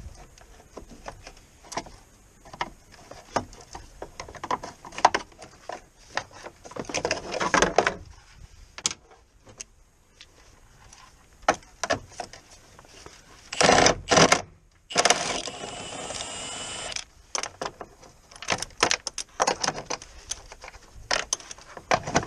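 Hand tools working on the car: repeated metallic clicks and clinks. About two-thirds of the way in there are two short loud bursts, followed by about two seconds of steady whirring, like a power tool running.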